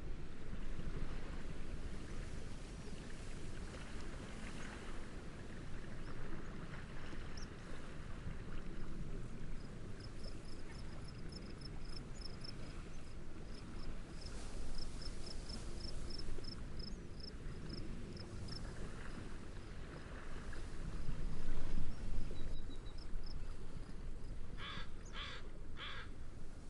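Steady wind and gentle waves, with a high, rapid chirping through the middle and a bird giving three short harsh calls near the end.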